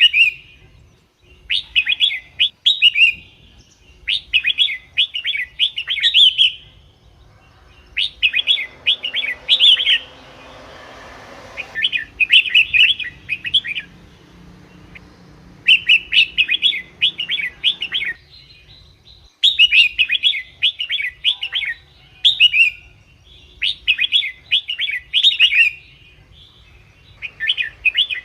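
Red-whiskered bulbul singing: short, rapid, bright phrases repeated about every two seconds with brief pauses between them. This is a lure song used to call wild bulbuls or excite caged ones. A soft rushing noise runs under the song for a few seconds about a third of the way in.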